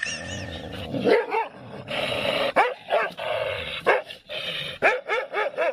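A dog barking and yipping over and over in short calls that rise and fall in pitch, with whining between them.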